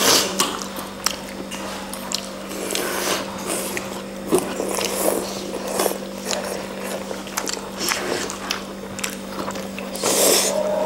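A person eating pork thukpa noodle soup: chewing and biting, with many short wet clicks and smacks, over a steady low hum.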